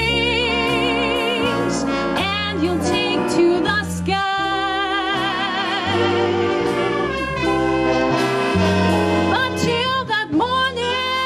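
Swing band music: a singer holds notes with wide vibrato over brass and a bass line stepping steadily from note to note.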